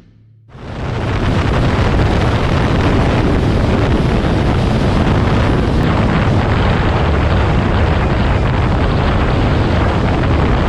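Heavy wind rushing over the microphone of a motorcycle moving at road speed, with a steady low engine rumble beneath it. It comes in about half a second in and stays steady.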